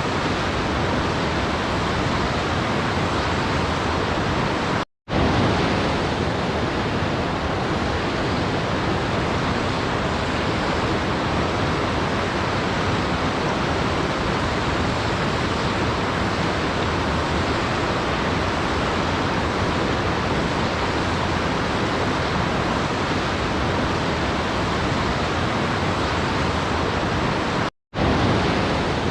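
Steady, even rushing of a waterfall, sounding much like pink noise. It drops out to silence for a split second twice, about five seconds in and near the end.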